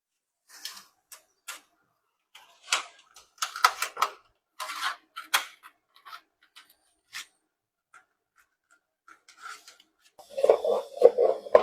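Sheet-metal work on a blank of thick galvanized iron sheet: scattered snips cuts, metallic scrapes and clicks. A louder, denser burst comes near the end.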